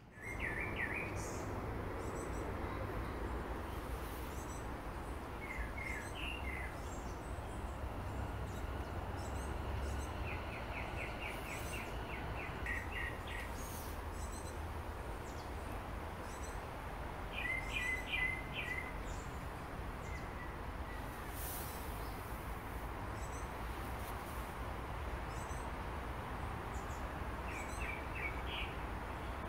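Small birds chirping in short clusters of high notes every few seconds, one a quick run of a dozen or so repeated notes, over a steady outdoor hiss and low rumble.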